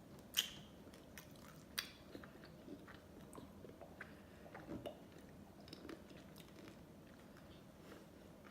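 Close-miked mouth sounds of eating ice cream: faint biting and chewing, with two sharp clicks about half a second and two seconds in.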